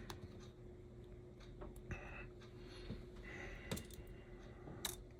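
Faint, scattered light clicks and taps of tiny HO slot car motor parts being handled and fitted together, over a low steady hum.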